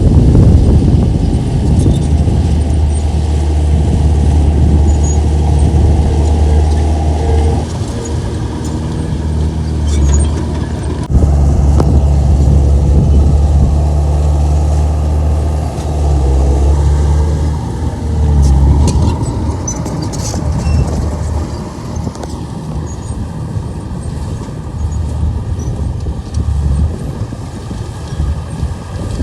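Komatsu bulldozer's diesel engine running under working load. It swells and eases several times and runs quieter toward the end.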